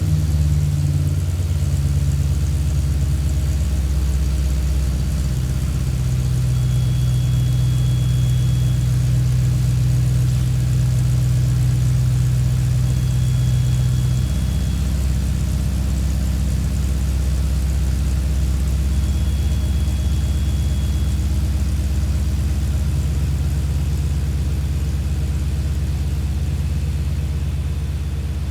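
BMW M62B35 V8 with a Magnaflow exhaust and Magnaflow catalytic converters idling steadily. The idle note shifts slightly about halfway through and again later on.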